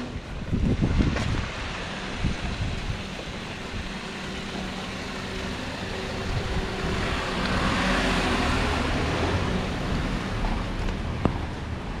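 A car running close by with a steady engine hum, its tyre hiss on the wet road swelling and fading as it passes about two-thirds of the way through. A single sharp click sounds near the end.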